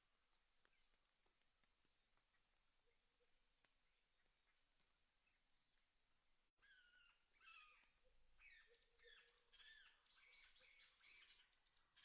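Faint countryside ambience: a steady high insect drone, then birds calling with repeated falling whistles after a brief sudden dropout about halfway through.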